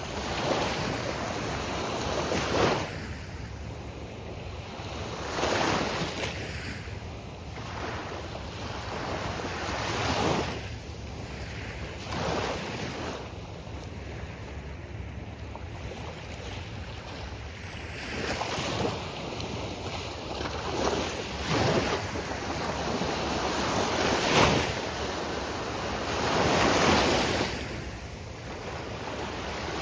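Ocean surf breaking on a beach, the waves swelling and washing in every few seconds over a steady roar, with some wind buffeting the microphone.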